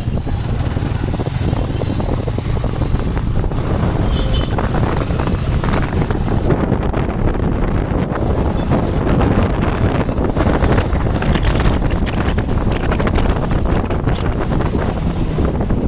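Steady wind buffeting the microphone over the engine and road noise of a moving motorcycle.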